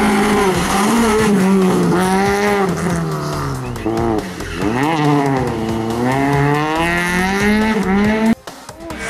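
Rally car engine at high revs, its pitch rising and falling again and again with a deep dip near the middle as the car changes speed. The sound cuts off abruptly near the end.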